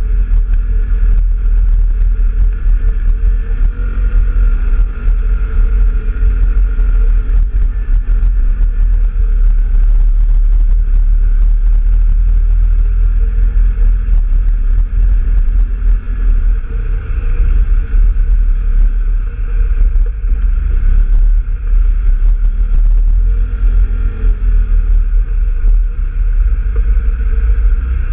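Engine of a trail-riding off-road vehicle running steadily under way, loud, with a heavy low rumble.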